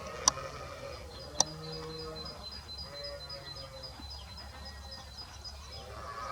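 Birds calling: a run of short, high, evenly spaced ticking calls, about five a second, after two sharp taps in the first second and a half. A few brief lower calls come in near the middle.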